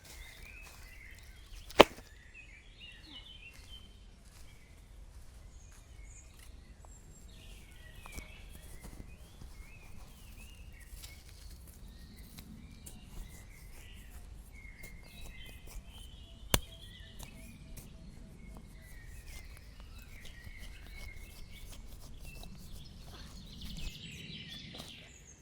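Birds chirping and calling on and off, with two single sharp knocks: one about two seconds in and one about sixteen seconds in.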